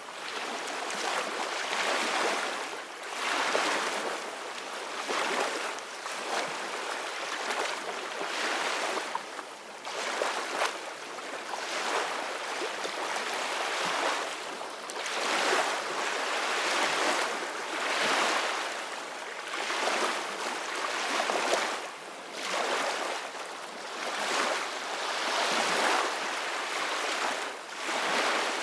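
Ocean waves breaking and washing in, a continuous rush of surf that swells and eases every two to three seconds.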